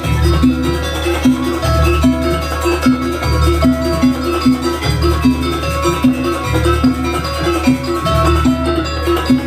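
Traditional Banyuwangi barong and jaranan music: a steady drum-like beat under a short, fast repeating pattern of pitched notes.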